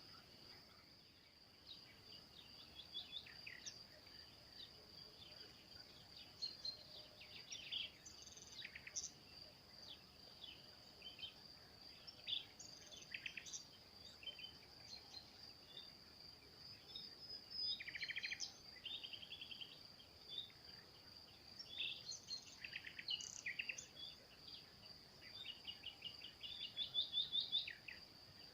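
Small birds singing and calling in short chirps and quick trills, some louder bursts near the end, over a steady high insect drone.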